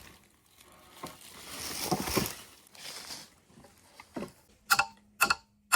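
Rustling and scraping of building materials, then a run of sharp knocks on wood near the end: four blows, the last three about half a second apart, as timber framing is worked on.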